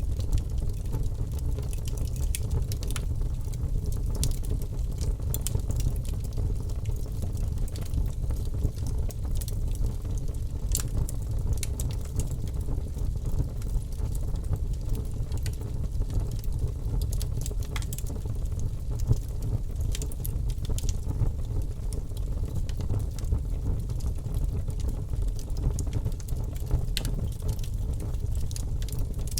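Logs burning in a wood fireplace: many irregular sharp crackles and pops over a steady low rumble.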